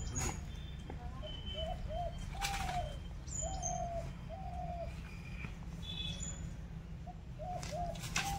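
A bird calling in runs of two to four short, low, even-pitched hooting notes, repeated several times, with fainter high chirps from other birds and a few brief noises in between.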